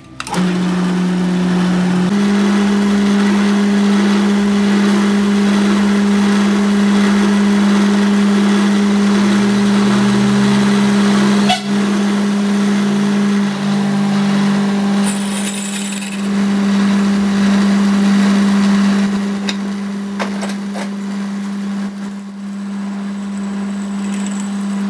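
A shop machine's motor running steadily: a strong, even hum that steps up slightly in pitch about two seconds in, over a continuous hiss of noise.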